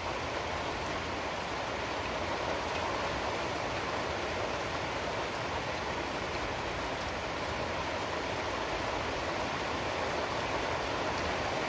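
Steady rain falling: an even hiss with faint scattered patter of drops.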